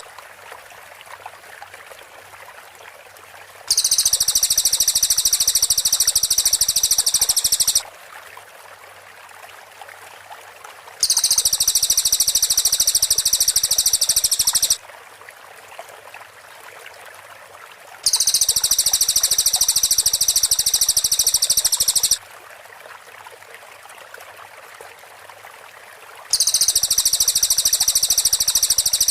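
Cililin song: four bouts, each about four seconds long, of very rapid, tightly packed high notes ('tembakan rapat', rapid-fire shots), starting and stopping abruptly as a repeating loop. A faint steady hiss fills the gaps of about three seconds between bouts.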